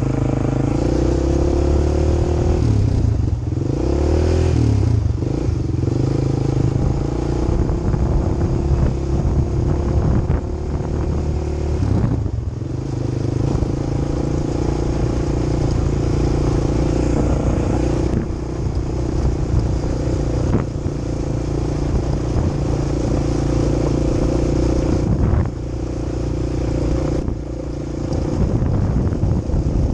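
Quad bike engine running under way, its note rising and falling with the throttle. It eases off briefly about twelve seconds in and again around twenty-five seconds, then picks up again.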